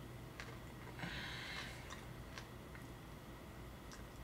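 Faint chewing of a person eating a barbecue-sauced pork rib, with a few soft mouth clicks over a low steady hum.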